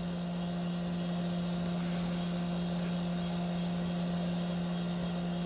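Steady electric motor hum, like a bench fan or blower, holding one low pitch with fainter overtones and no change in speed.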